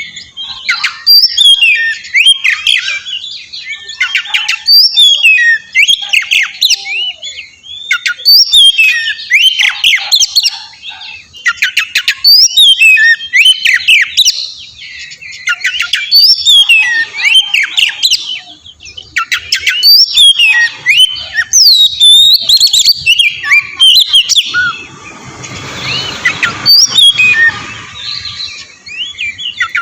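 Oriental magpie-robin (kacer) singing loud, varied whistled phrases in quick succession with short pauses between them: a lure song meant to set another magpie-robin answering. A short stretch of hiss lies under the song a little before the end.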